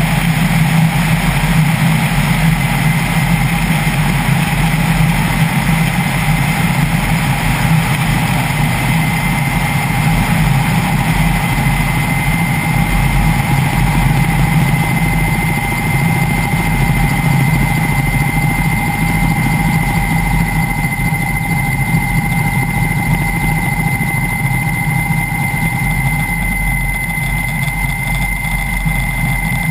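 Kamov Ka-32T twin-turboshaft helicopter running at a steady pace, a loud constant hum with a steady high turbine whine over it.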